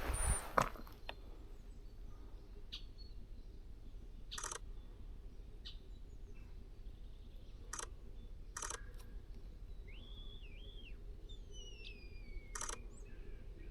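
Small birds calling: scattered short, sharp chirps, and a little past the middle a two-note call and a couple of long falling whistles, over a low steady rumble. A brief rustle in the first second.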